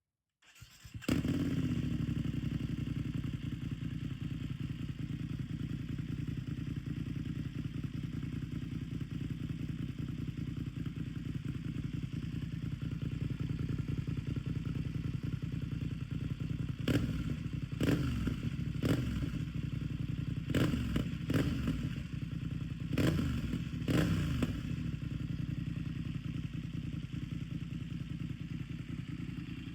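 BMW F900R's parallel-twin engine through an Arrow Pro-Race exhaust starting up about half a second in, flaring as it catches, then idling. In the second half the throttle is blipped about seven times in quick short revs before it settles back to idle.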